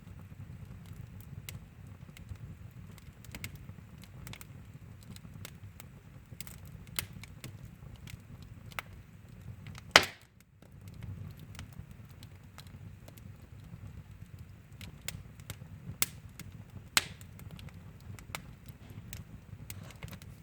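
Wood fire in a fireplace crackling: irregular sharp pops and snaps over a low, steady rush of the flames, with one loud pop about halfway through.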